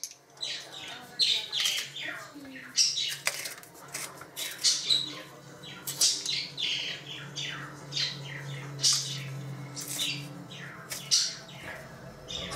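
A bird squawking and chirping over and over in short, sharp calls that fall in pitch, one or two a second, over a low steady hum.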